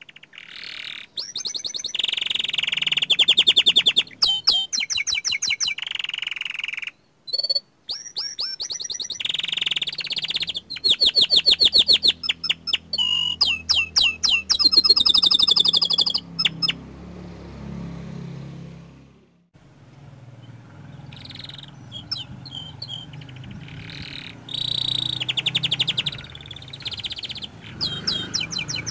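Young domestic canary singing a long, varied song of fast trills, rapid repeated chirps and held whistled notes, breaking off briefly twice and going quieter for several seconds about two thirds of the way through.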